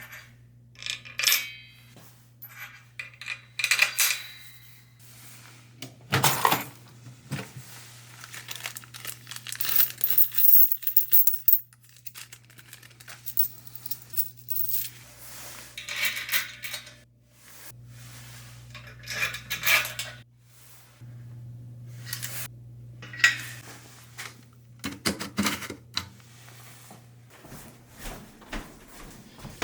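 Metal parts and hand tools clinking and clattering in irregular bursts as the cast-iron compressor pump is bolted down, over a low steady hum.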